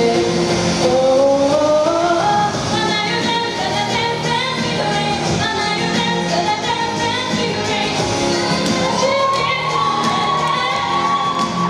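A female singer singing live karaoke over a recorded pop backing track. She holds one long high note through the last few seconds.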